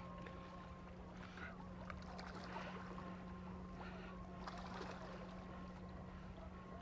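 Faint water lapping and splashing in a few soft irregular bursts, over a steady low hum.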